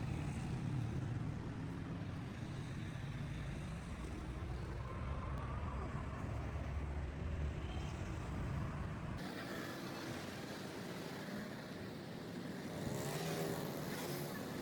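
Steady low rumble of a motor vehicle engine running, which stops abruptly about nine seconds in and gives way to thinner background noise.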